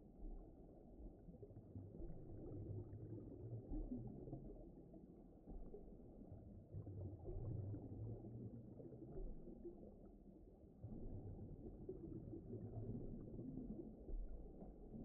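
Faint, muffled underwater ambience: a low rumbling wash of water that swells and eases every few seconds.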